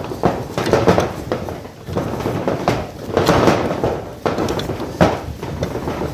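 Flour-and-cornmeal dumpling dough being kneaded by hand in a pot, with irregular knocks and thumps of the dough and hands against the pot.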